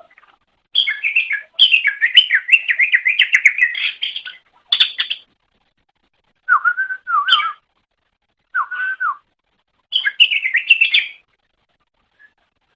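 Green leafbird (cucak ijo) singing: fast, varied warbling with quick up-and-down whistled notes. A long phrase of about three and a half seconds comes first, then several shorter phrases separated by pauses.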